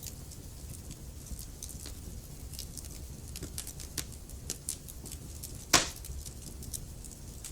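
Wood fire in a fireplace crackling: irregular small snaps over a low hiss, with one sharp, loud pop about three-quarters of the way through.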